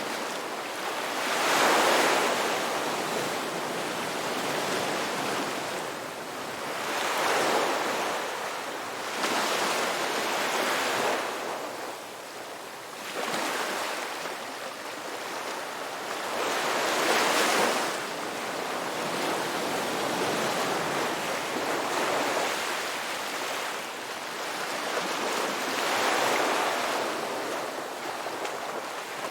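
Ocean surf breaking and washing up a beach, swelling and fading in slow surges every few seconds.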